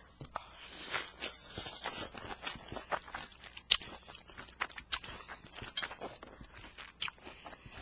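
Close-miked chewing and eating sounds: wet mouth clicks and crunching. The crunching is densest in the first two seconds, and a string of sharp clicks follows.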